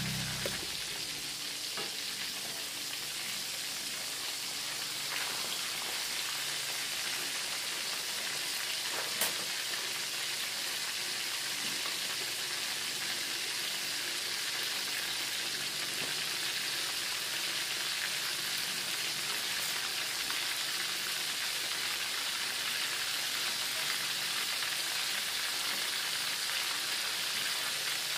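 Breaded chicken cordon bleu rolls shallow-frying in hot oil in a pan, a steady sizzle with the crackle of bubbling oil. One sharp click about nine seconds in.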